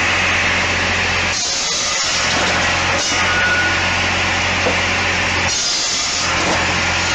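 Machinery running loudly with a steady low hum under a noisy wash, the hum dropping away twice for under a second, about four seconds apart.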